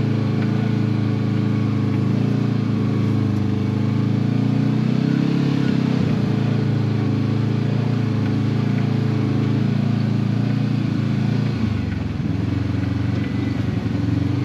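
Side-by-side UTV engine running at low trail speed, its pitch rising and falling with the throttle and dropping lower near the end.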